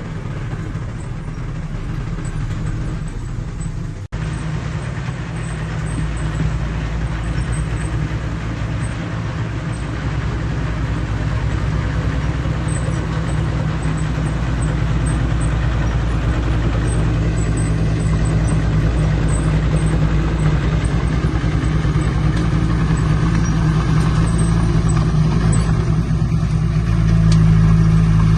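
Engine of a heavy earthmoving machine running steadily, slowly growing louder, with a brief drop-out about four seconds in and a step up in level near the end.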